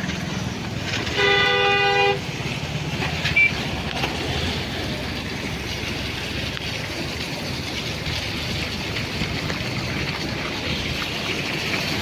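A vehicle horn honks once for about a second, a little after the start, over a steady hiss of heavy rain and a low traffic rumble.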